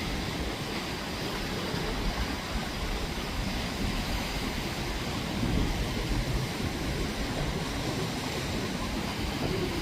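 Ocean waves washing on the shore in a steady rush, with wind buffeting the microphone in uneven low rumbles.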